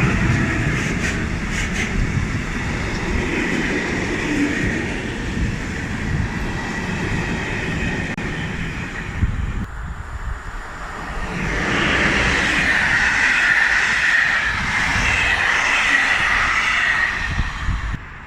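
A train running past on the rails: a loud, continuous rumble of wheels on track with a high ringing squeal from the wheels. It eases off briefly about ten seconds in, then swells again before cutting off abruptly at the end.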